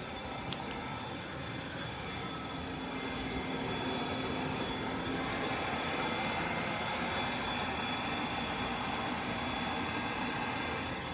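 Roomba 104 robot vacuum running: a steady whirring hum with a thin, high, steady whine, growing a little louder about four seconds in.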